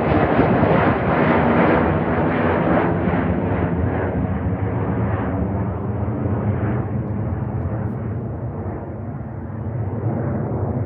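Jet aircraft engine noise, loud at first, then slowly fading and growing duller as the plane moves away.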